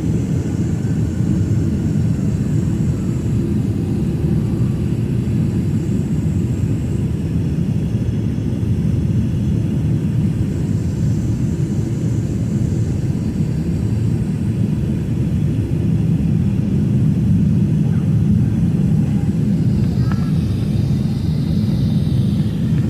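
Boeing 767 jet airliner's engines giving a steady, low rumble that swells slightly in the second half.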